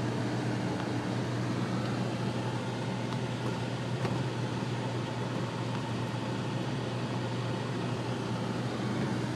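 Steady in-cabin noise of a car driving in the rain: a low, even drone with a broad hiss over it.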